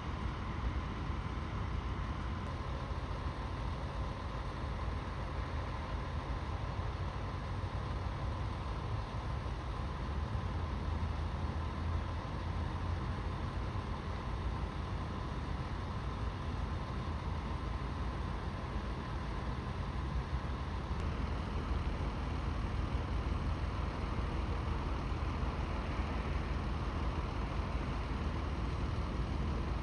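Steady low rumble of motor vehicle engines idling, with road traffic noise.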